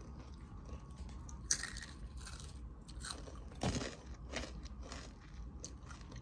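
Chewing and crunching on Takis rolled tortilla chips: scattered crisp crunches, the sharpest about a second and a half in and again just before four seconds in.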